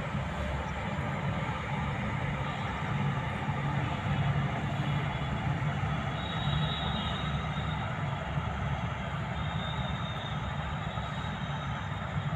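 Indian Railways train running on the track: a steady rumble without a break.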